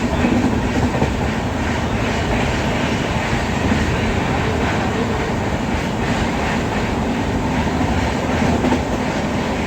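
Passenger train running along the track, heard from on board: a steady rumble of the wheels on the rails with faint regular knocks.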